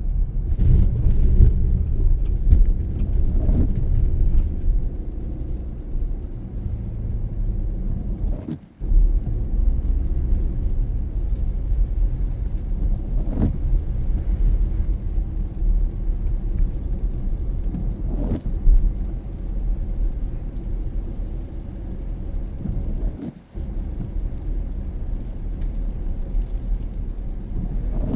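Car driving on the road: a steady low rumble of tyres and engine, with a few faint knocks and two brief dips in level.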